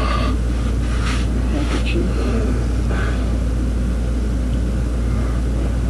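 A steady low hum, with a few light clicks and knocks from small items being handled about one to two seconds in.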